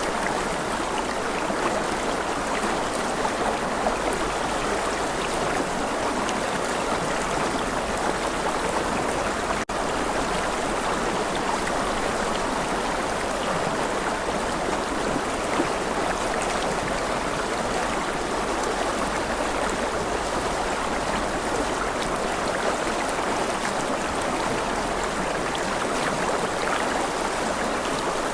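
Stream water running steadily, an even rushing with a momentary break about ten seconds in.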